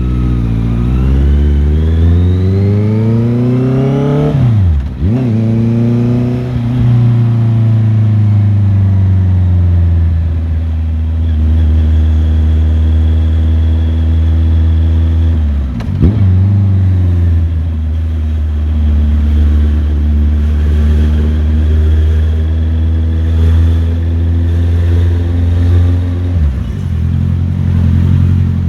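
Motorcycle engine under way: revs rise for the first few seconds, drop sharply about five seconds in and again around sixteen seconds, and otherwise run at steady revs.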